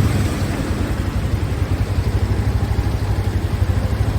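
Motorcycle engine running steadily, with a fast, even throb.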